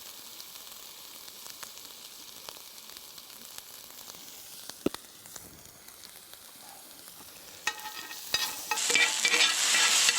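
Food sizzling as it cooks, a faint steady sizzle that turns louder and crackly about eight seconds in.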